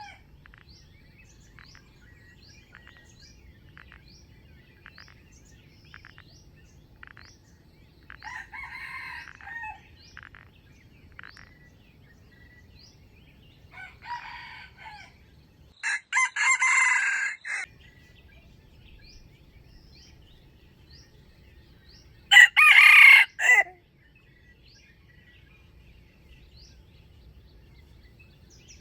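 Red junglefowl roosters crowing four times, two faint distant crows followed by two loud close ones, the last the loudest. Between them a faint chirp repeats about once a second.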